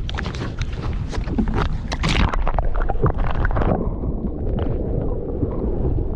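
A small boat at sea: a steady low rumble with wind buffeting the microphone. Sharp crackling and splashing noise runs through the first four seconds, then settles to a duller, steadier rumble.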